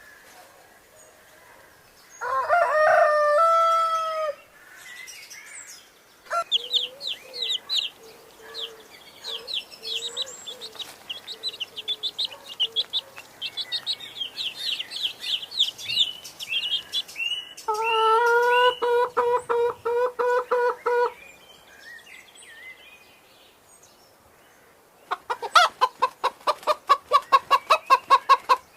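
Chickens: a rooster crows once, about two seconds in, then a long run of quick high chirps with clucking beneath. A burst of rapid clucking follows around eighteen seconds, and a fast rattling run of calls comes near the end.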